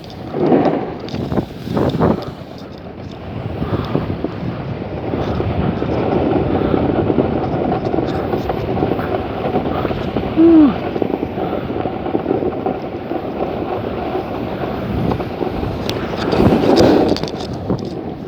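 Wind rushing over the microphone and the steady rough hiss of a snowboard riding fast down a snowy slope. It swells near the start and again near the end, with one brief falling squeak about ten seconds in.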